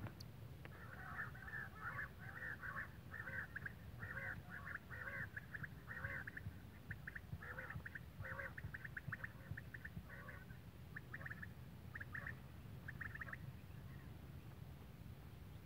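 A bird calling over and over in quick chattering bursts, with short pauses between the runs.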